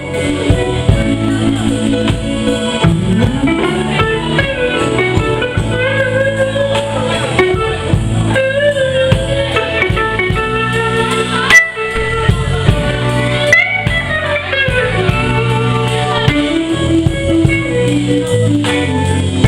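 Live band playing a blues-soul instrumental passage, a lead guitar bending notes over bass and drum kit, with one sharp drum hit about halfway through.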